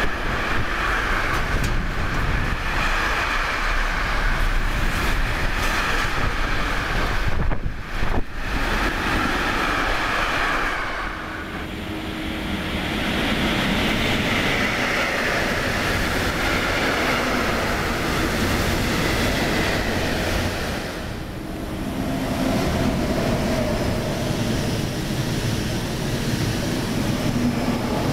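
Trains running through a station at speed: the steady rolling rush of a container freight train's wagons on the rails, then passenger trains, including an ICE high-speed train, sweeping past. The sound breaks off and changes abruptly a few times as one train gives way to the next.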